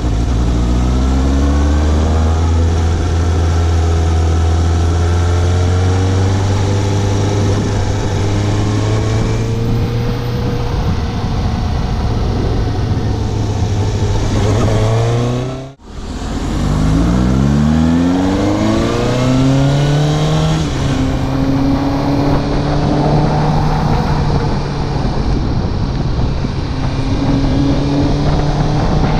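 Suzuki GSX750 motorcycle engine pulling away and accelerating through the gears, its pitch rising in repeated climbs, then running steadily at cruising speed. The sound cuts out very briefly about halfway through, then picks up again with another run up through the gears.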